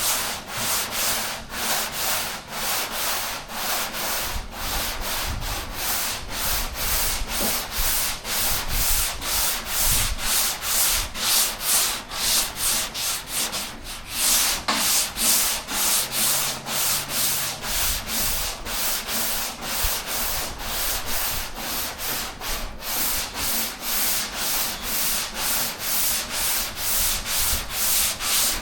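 Hand sanding block with 180-grit sandpaper rubbing back and forth over primer on a car door, about two strokes a second with a brief pause partway through. This is the first block-sanding pass, levelling the primer in a cross pattern.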